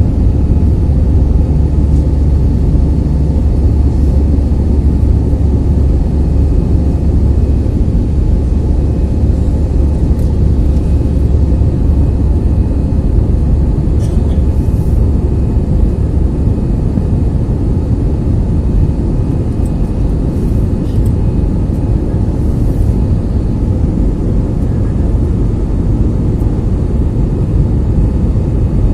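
Airliner landing: a loud, steady low rumble of engines and rushing air, with a few faint clicks.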